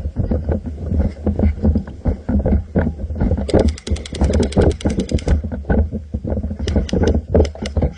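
Airsoft M4 electric rifle firing a full-auto burst of about two seconds, a rapid even rattle of roughly a dozen shots a second, followed by a handful of separate single shots near the end. Underneath is a constant low rumble with irregular knocks.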